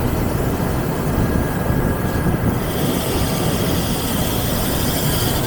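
Alloy-wheel repair lathe running steadily, a loud continuous machine noise with faint high whines, the hiss getting brighter about halfway through.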